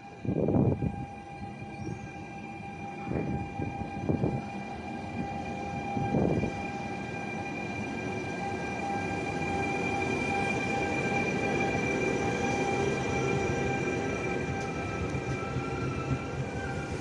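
Trenitalia E464 electric locomotive hauling a regional train: a steady electric whine in several pitches over a rising rumble that levels off about two-thirds of the way in. A few heavy thumps come in the first six seconds.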